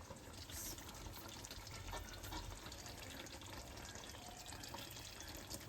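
Faint, steady bubbling of a creamy chicken and milk sauce boiling in a pot, with fine crackles throughout.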